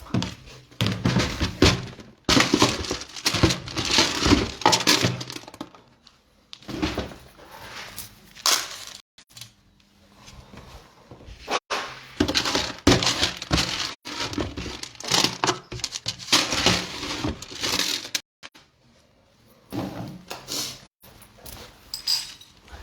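Cat food bowls being filled and handled: clattering and rattling in spurts of a few seconds, with short pauses between them.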